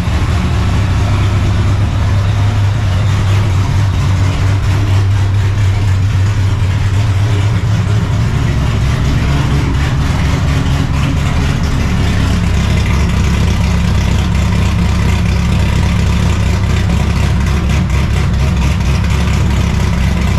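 Straight-piped, cammed and supercharged 5.4 two-valve V8 of a 1999 Ford Mustang GT running steadily at low revs, a deep, even exhaust note with no revving.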